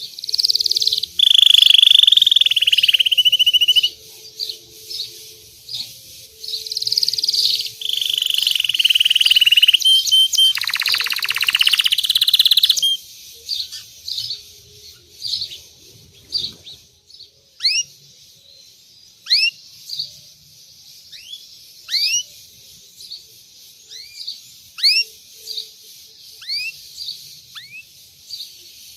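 Belgian canary singing: loud, continuous high trills and fast rolling runs for about the first 13 seconds. The song then gives way to softer, separate upward-sweeping chirps repeated every second or so.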